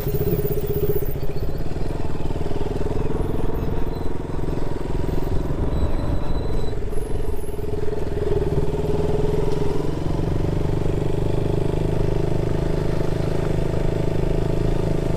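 Motorcycle engine running steadily while being ridden, its pitch dipping briefly about halfway through.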